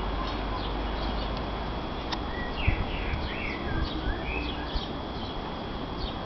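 Wild birds singing: short high chirps repeat throughout, and a louder warbling phrase comes from about two to four seconds in, over a low rumble and a couple of soft knocks.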